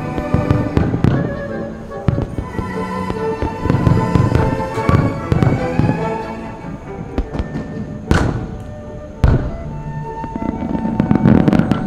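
Fireworks bursting in rapid succession, with a couple of especially sharp bangs about two-thirds of the way through and a dense flurry near the end, over orchestral background music.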